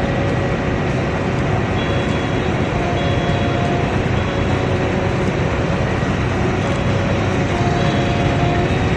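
Large combine harvester running steadily under load: a dense, even engine and machinery noise with a few faint whining tones that come and go.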